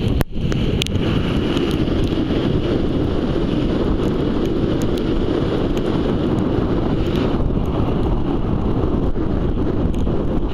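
Strong wind buffeting the microphone in a steady low rush, with ocean surf beneath it.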